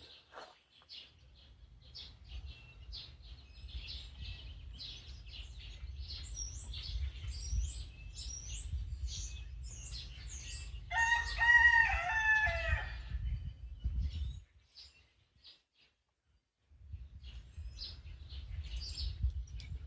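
A rooster crows once, a wavering call of about two seconds just past the middle and the loudest sound here, over small birds chirping. A low rumble runs underneath and drops out for about two seconds near the end.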